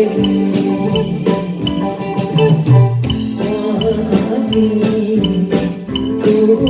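Instrumental enka-style backing music with guitar over a steady drum beat, without singing.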